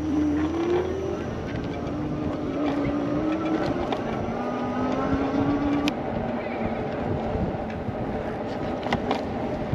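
A motor's whine rising in pitch three times in a row, dropping back between rises like a vehicle accelerating, over a steady rush of wind and rolling noise. A few light clicks come near the end.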